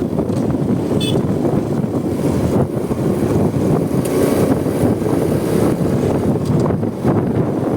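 Wind rushing over the phone microphone on a moving Honda Supra X 125 motorcycle, a loud, steady low rush mixed with engine and road noise. A brief high squeak comes about a second in.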